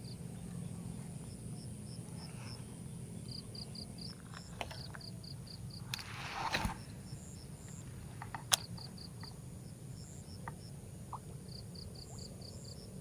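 Insects chirping in short repeated runs over a steady high buzz and a low background rumble. A brief noisy rush comes about halfway through, and a single sharp click a couple of seconds later.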